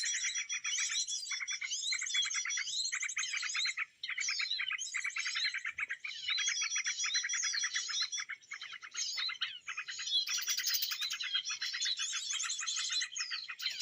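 Small songbird giving rapid, dense chattering chirps with quick sliding notes, in bursts with a brief break about four seconds in.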